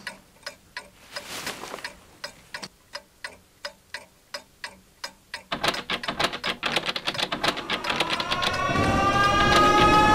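Even clock ticking, about three ticks a second. A little past halfway it gets louder and busier, and near the end a chord of slowly rising tones swells up over it and grows louder.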